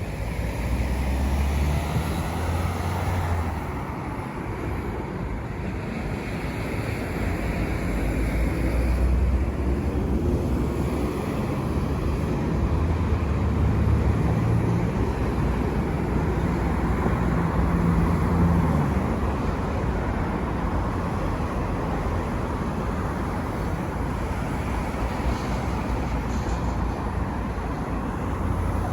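City street traffic: a steady hum of tyres and engines, with several cars passing one after another, their rumble swelling and fading.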